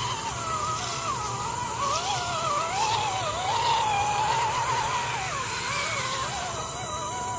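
RC truck motor whining, its pitch rising and falling continually as the throttle is worked.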